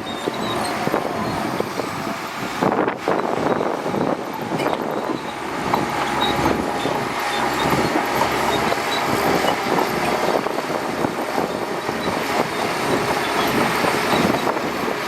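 Shantui DH17C2 crawler bulldozer running steadily, its engine sound mixed with a constant patter of small metallic clatters, with a short dip about three seconds in.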